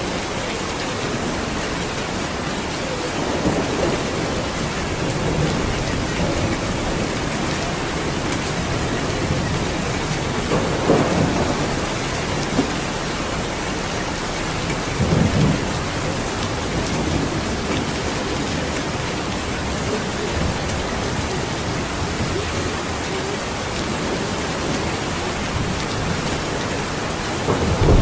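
Steady heavy rainfall hissing, with several low rolling rumbles of thunder coming and going, the last one starting right at the end.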